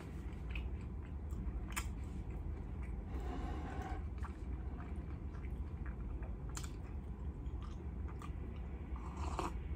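Quiet close-miked mouth sounds of chewing over a steady low hum, with a sip of coffee from a mug near the end.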